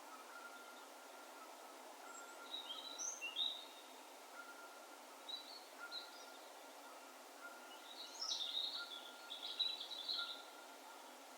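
Distant birds calling over a faint steady background hiss: short high chirps in a few clusters, the longest run of calls near the end, with a quieter note repeating throughout.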